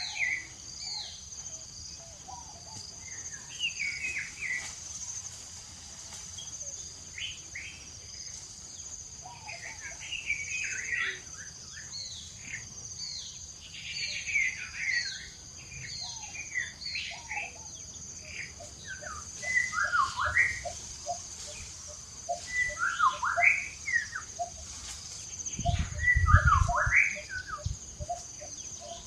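Birds chirping and calling in short rising and falling phrases over a steady high insect drone, with a quick run of ticking notes in the second half. A brief low rumble comes near the end.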